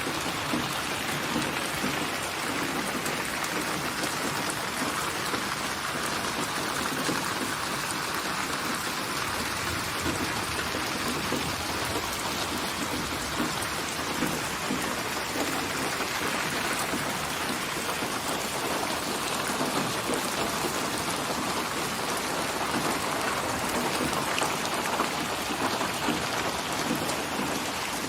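Steady rain falling and pattering on a surface, an even hiss with dense drops and no letup.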